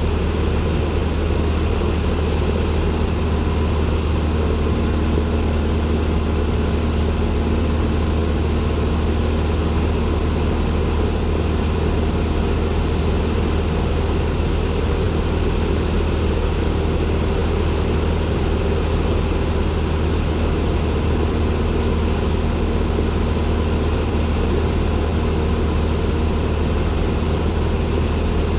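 Cessna 172N's four-cylinder Lycoming O-320 piston engine and propeller droning steadily, heard from inside the cockpit, with a deep low hum and no change in pitch or level.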